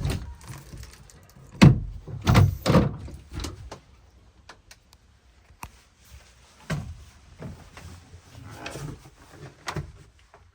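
A string of irregular thumps and knocks, heaviest about two seconds in and lighter later: someone stepping and bumping down into a boat's cabin.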